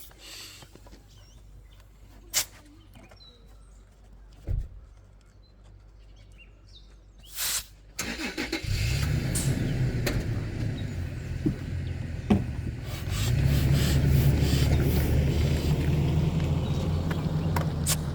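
A few sharp knocks, then a car engine starts about eight seconds in and keeps running, getting louder about five seconds later.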